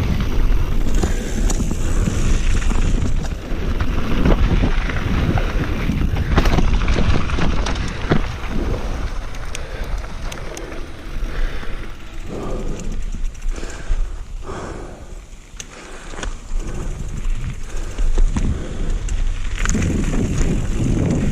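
Mountain bike rolling fast down a dirt trail: tyres on dirt and rock with the bike rattling and knocking over bumps. It eases off briefly about three-quarters of the way through.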